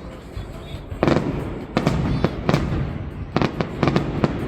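High-altitude aerial firework shells bursting, a string of sharp bangs over a continuous low rumble. The first second is quieter; after that a bang comes about every half second.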